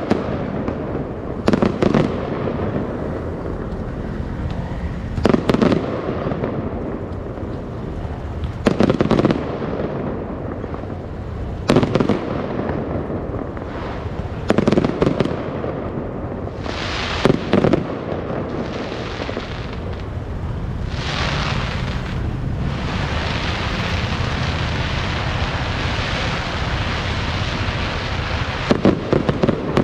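Fireworks going off: sharp bangs about every three seconds, then a long, steady hissing crackle from about two-thirds of the way in, with bangs again near the end.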